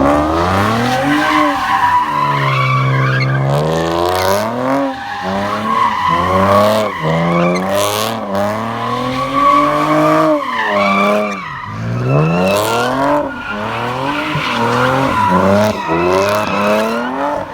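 A car engine revving up and down again and again while its tyres squeal steadily: a car spinning its wheels in a burnout.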